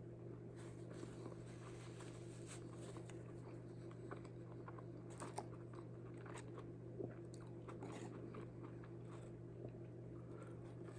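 A person biting and chewing a bite of burrito, with faint crunches and mouth clicks scattered throughout, over a steady low electrical hum.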